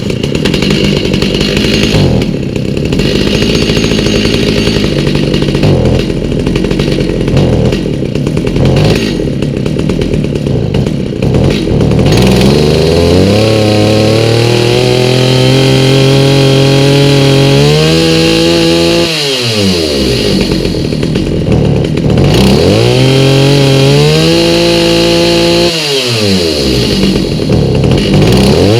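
Stihl MS290 two-stroke chainsaw engine, fitted with a new aftermarket carburetor at its out-of-box settings, running unevenly at low speed for the first dozen seconds, then revved up to full throttle and let back down three times.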